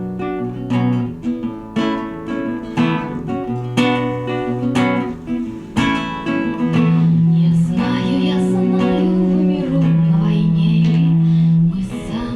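Acoustic guitar strummed in a steady rhythm of chords. About halfway through, long held low notes come in over the strumming.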